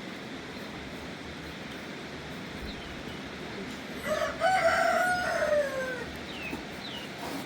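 A rooster crowing once, about four seconds in, a call of about two seconds that holds its pitch and then falls away at the end. Behind it is a steady hiss and a few short, high chirps from small birds.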